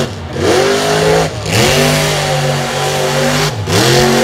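Monster truck engine revving hard at high throttle. It lets off briefly three times, just after the start, about a second and a half in, and near the end, and each time the pitch climbs straight back up.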